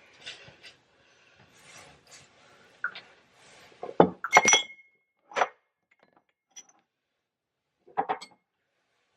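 Glass clinking and knocking as a wine bottle and glass are handled: several separate short clinks, one of them ringing briefly about four and a half seconds in.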